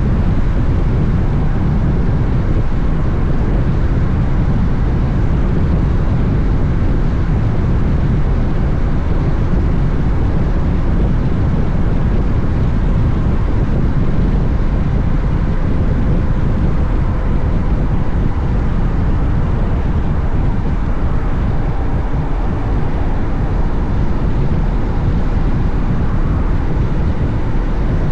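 Steady wind rush and buffeting on the camera microphone of a Honda X-ADV motorcycle under way, with its engine and road noise underneath.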